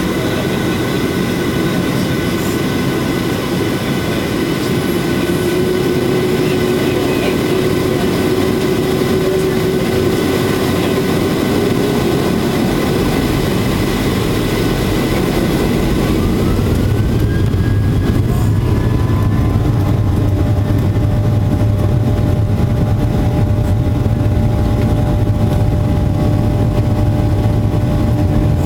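Boeing 737-800's CFM56 jet engines running with a steady whine over a low rumble. About seventeen seconds in, the high hiss fades, a brief rising tone sounds, and the noise settles into a lower, steady hum.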